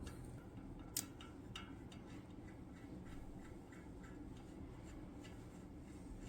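Ticking of a Shimano Dura-Ace R9100 wheel's freehub as the wheel spins: a sharp click about a second in, then an even, faint tick about three times a second.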